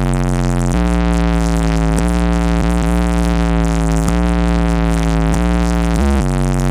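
Trap music with a heavy, sustained 808-style bass line stepping between notes, played very loud through a high-powered car audio system.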